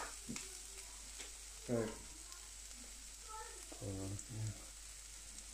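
Food frying on a hot carbon steel griddle: a steady, faint sizzling hiss, with a few light clicks.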